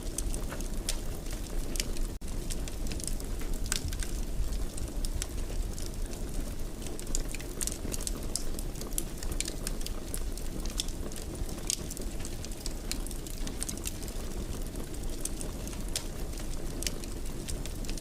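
Wood fire burning in a fireplace: a steady low rumble of flames with frequent irregular crackles and pops. The sound cuts out for an instant about two seconds in.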